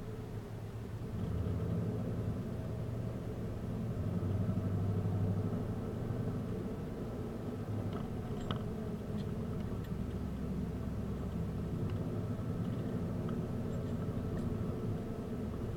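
A car's engine running steadily with a low hum and road noise, as while driving, with a few faint clicks about halfway through.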